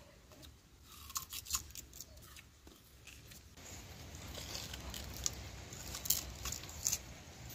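Several people biting and chewing raw sugarcane: irregular crisp crunches and snaps as the fibrous stalks are bitten and stripped.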